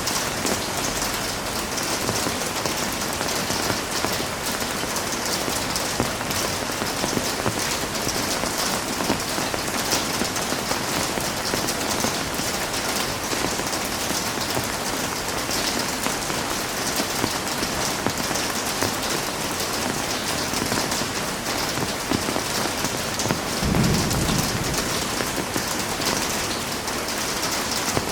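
Heavy rain falling steadily in a dense, even hiss. About three-quarters of the way through there is one brief low rumble.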